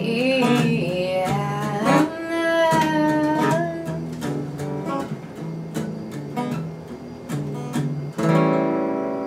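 Acoustic guitar strumming, with a sung note that slides and is held through the first few seconds. The song ends on a last strummed chord about eight seconds in, left ringing.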